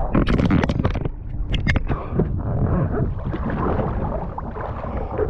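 Seawater splashing and sloshing close to the microphone, with a run of sharp splashes in the first couple of seconds and then steady lapping and wind on the microphone.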